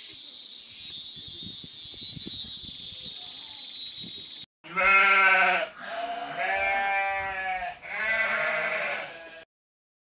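A steady high-pitched buzzing hiss for the first few seconds, then sheep bleating: several long, wavering bleats, the first the loudest.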